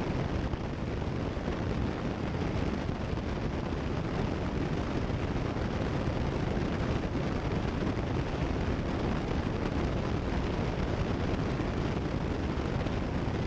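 Cessna 172 Skyhawk's piston engine and propeller running steadily in level cruise: an even, unbroken drone.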